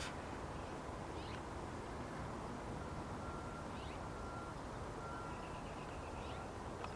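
Birds chirping: a few short, scattered chirps and a brief trill, with a thin repeated whistle-like note in the second half, over a steady background rumble.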